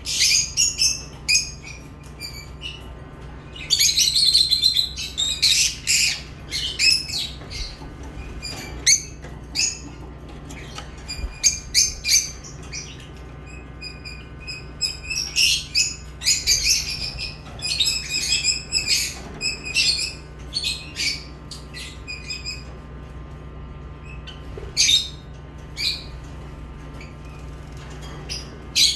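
Lovebirds chirping: a stream of short, high calls with dense flurries about four seconds in and again past the middle, over a faint steady low hum.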